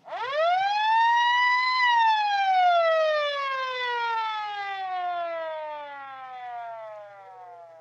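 A mechanical siren winds up, its pitch climbing quickly to a peak in under two seconds, then winds down in one long, slowly falling and fading glide.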